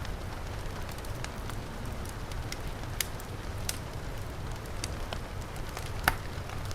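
Wood fire crackling with scattered sharp pops, one about three seconds in and the loudest near the end, over a steady rush of heavy rain.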